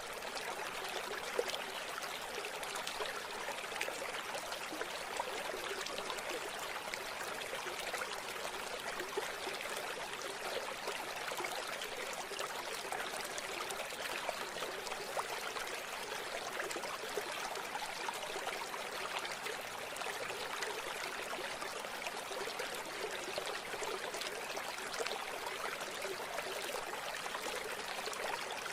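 River water running steadily, an even rushing and splashing with little deep rumble.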